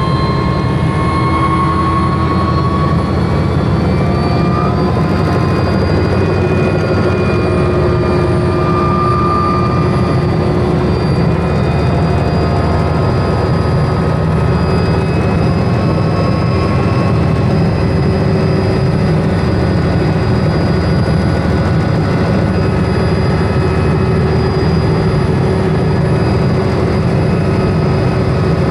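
Helicopter running: a loud, steady low rumble with a thin, slightly wavering whine above it.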